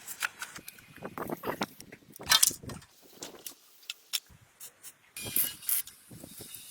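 Irregular clicks, knocks and clanks of tools and metal parts being handled during work on an old motorcycle, with short quiet gaps between them.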